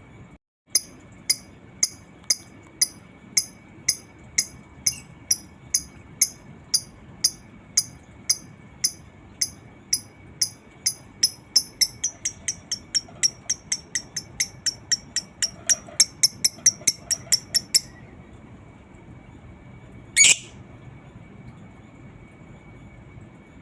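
Lovebird giving its long 'ngekek' chatter: a run of sharp high chirps that speeds up from about two to about four a second and stops after about eighteen seconds. A single sharp call follows a couple of seconds later.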